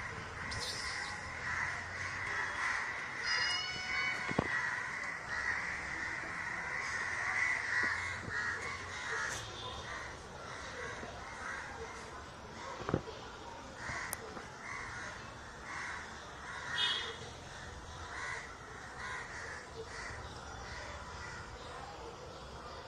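Birds calling repeatedly, harsh cawing calls over a steady pulsing outdoor chorus, with a few sharp clicks.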